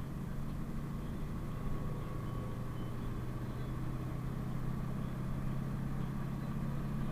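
PAZ-32054 bus's V8 petrol engine running with a steady low hum.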